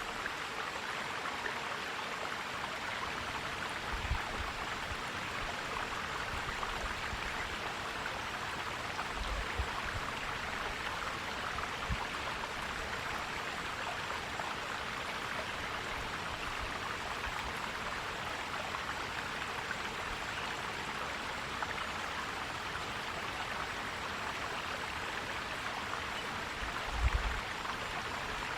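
Forest stream flowing and gurgling, a steady rush of water, with a few brief low thumps, the loudest near the end.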